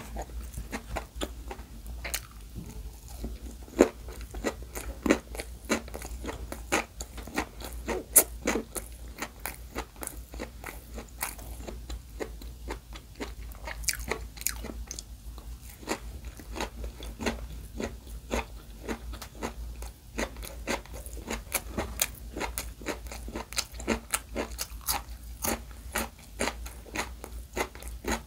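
Close-miked chewing and biting of rice-free gimbap stuffed with raw carrot strips and pickled radish, a steady run of crisp, irregular crunches; the sharpest crunches come about 4 and 8 seconds in.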